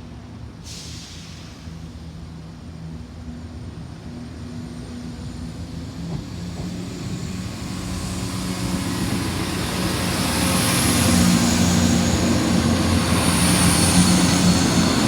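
Class 170 Turbostar diesel multiple unit approaching, its low diesel engine hum and running noise growing steadily louder.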